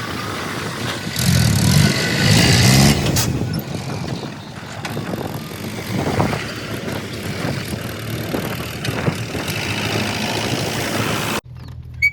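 Diesel engine of heavy earthmoving machinery running, rising briefly about one to three seconds in, then running steadily until the sound cuts off abruptly near the end.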